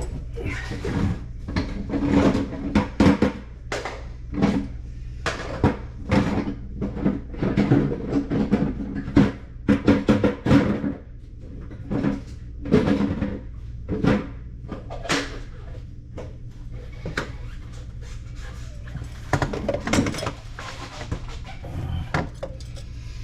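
Irregular knocks and clatter of PVC drain pipe and fittings being handled under a kitchen sink, with music playing in the background.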